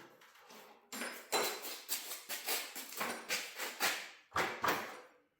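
Repeated metallic knocks and clanks, about three a second, from metal garage door torsion spring hardware being worked on the shaft.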